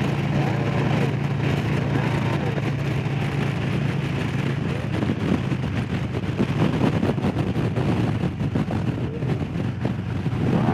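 Harley-Davidson Low Rider S Milwaukee-Eight V-twin running steadily at speed, with wind and road noise rushing over it.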